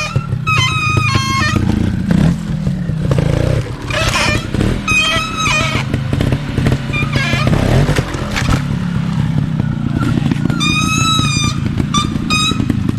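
Trials motorcycle engine running, its firing pulses filling the low end, under background music with short pitched notes.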